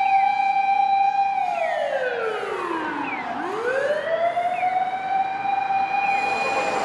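Fire engine siren wailing: a held note that winds down to a low pitch about halfway through, winds back up, holds, and stops near the end.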